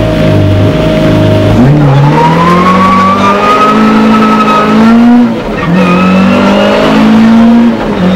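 Rally car engine heard from inside the cabin, holding a steady note briefly, then pulling away and accelerating hard with its pitch climbing; it drops back briefly about five seconds in and again near the end as the driver shifts up a gear.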